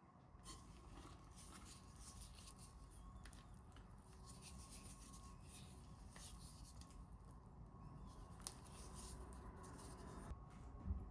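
Near silence, with faint light scratching and a few soft clicks of small handling sounds.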